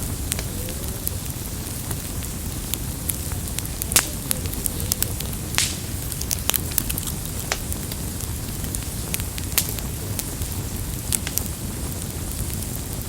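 Campfire crackling: irregular sharp pops and snaps of burning wood over a steady low rumble of the flames, with the biggest pops about four and five and a half seconds in.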